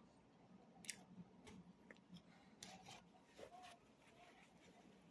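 Near silence with a few faint clicks of someone eating, the clearest about a second in.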